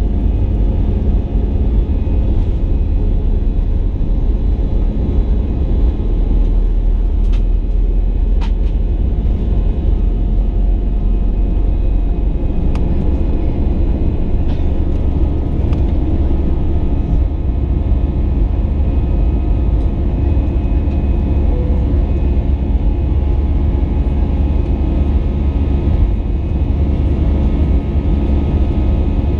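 Steady loud rumble of an Airbus A320's jet engines and airflow, heard from inside the passenger cabin.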